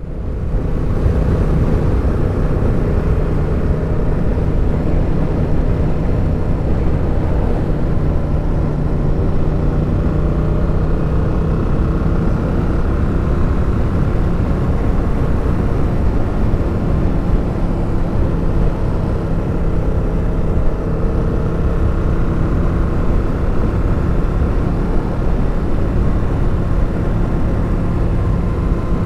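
Suzuki motorcycle engine running at a steady, slowly drifting pitch while riding, with wind rush on the helmet microphone.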